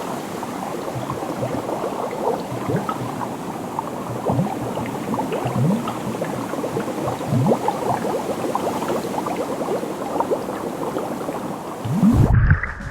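Water bubbling and gurgling, with many small pops and now and then a deeper bubble whose pitch rises, typical of a camera held in the sea.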